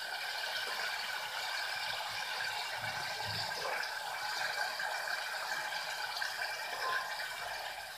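Paneer cubes sizzling in hot oil in a pan on medium flame, a steady frying hiss with small crackles, as they are lightly browned. A slotted metal spoon stirs and turns them in the pan.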